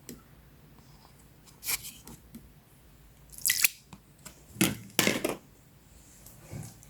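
Short crackling, snipping handling noises, a few separate bursts a second or so apart.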